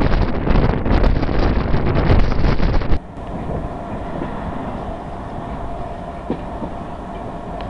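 Wind rushing loudly over the microphone held out of the window of a moving passenger train. About three seconds in it drops abruptly to the quieter, steady rumble of the train running, heard from inside the carriage, with a faint steady hum and a few light knocks from the wheels.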